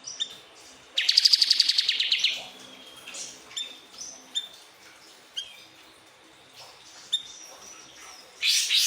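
Siri-siri bird singing: a fast, loud trill about a second in, then a scatter of short, sharp chirps, and another loud run of notes near the end.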